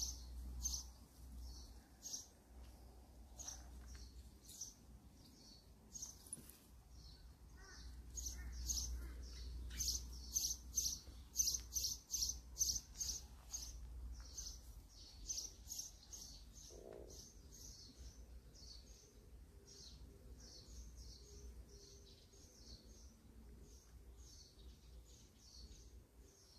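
Small birds chirping in a quick, repeated series of short high chirps, busiest and loudest from about eight to fourteen seconds in. A steady low rumble runs underneath.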